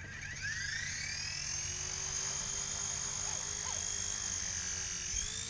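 Small electric RC helicopter's motor and rotor spinning up, a whine that rises in pitch over about the first second, holds steady, then rises again near the end.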